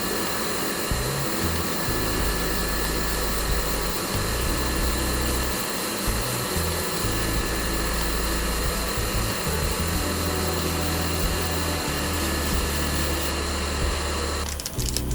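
Steady hiss of rushing air over background music with a bass line. The hiss stops shortly before the end.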